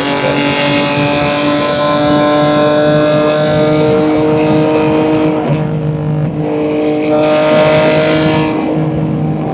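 The exhaust of a BMW M2 G87's S58 twin-turbo inline-six, fitted with catless downpipes and an equal-length mid pipe, as the car drives at a steady engine speed. The engine note dips briefly about five and a half seconds in and again near the end.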